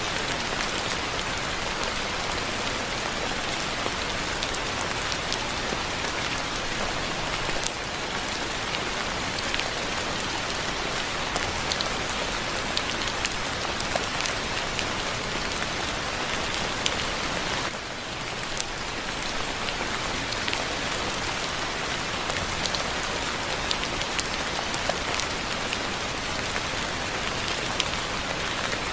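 Steady rain falling on a surface, an even hiss with scattered individual drops ticking; it eases slightly for a moment about two-thirds of the way through.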